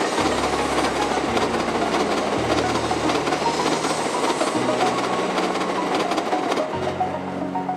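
Tokaido Shinkansen train running past through the points, a dense, loud rush of wheel and running noise that eases a little near the end. Background music with low bass notes changing every second or so plays under it.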